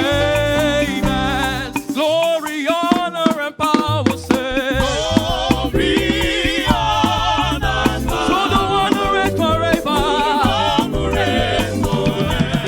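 Live gospel band playing praise music with singers, bass and drums keeping a steady beat; the bass and drums drop out briefly about two seconds in while the voices carry on, then come back.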